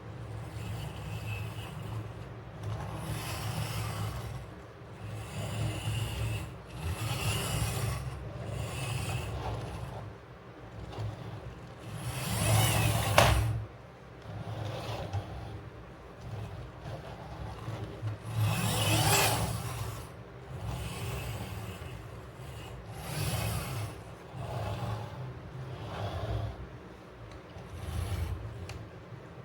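Plastic toy vehicles being handled and rolled across a surface: a string of rubbing, scraping rolls, each a second or two long, with two louder scrapes, one near the middle and one about two-thirds through.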